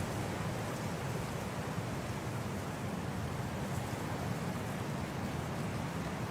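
Snowstorm wind blowing steadily: an even, unbroken hiss with a deeper rumble underneath.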